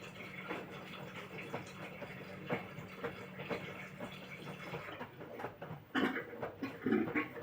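LG front-loading washing machine tumbling laundry in water, with repeated sloshes and splashes about every half second over a steady low motor hum. The hum stops a little after halfway, and louder sloshing follows near the end.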